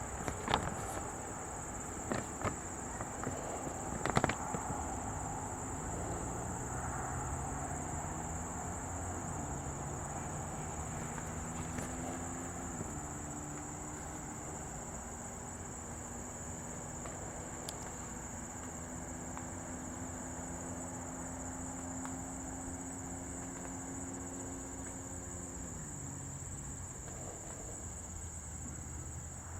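Insects trilling in one steady, high-pitched drone. Behind it is a low engine hum whose pitch steps up and down, and there are a few sharp clicks in the first few seconds.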